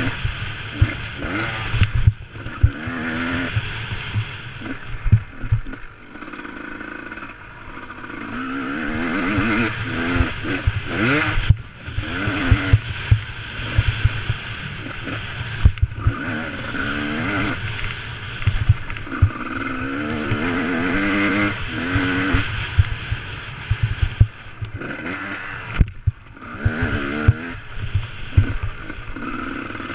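Motocross bike engine revving up and falling back again and again as the throttle is worked, with brief drops where the throttle is shut. Frequent low thumps of wind buffeting on the microphone.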